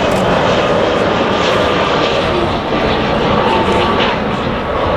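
Jet airliner engines running loud and steady, with a faint whine above the broad engine noise.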